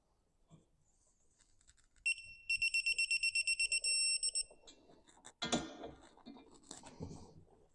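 Digital torque wrench giving a high, rapid electronic beeping for about two seconds: its signal that the set torque of 25 Nm has been reached on the bolt. A sharp knock follows about five and a half seconds in.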